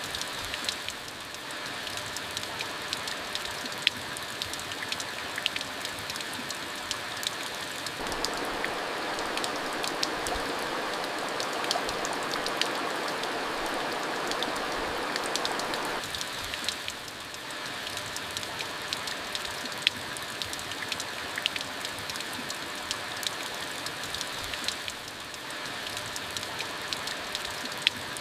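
Steady rain falling, with many individual drops striking a surface as sharp ticks over the hiss; it grows a little louder about eight seconds in and eases back about sixteen seconds in.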